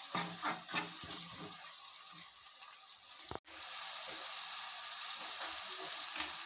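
A metal spoon stirring and scraping spices into onions frying in oil in a metal karahi, with a few knocks in the first second. After an abrupt cut a little past halfway, a steady sizzle of the masala frying.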